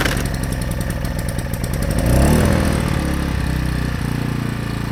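AiVolt 1600-watt gas inverter generator running just after a pull-start with the choke on, its engine speeding up about two seconds in and then settling to a steady run.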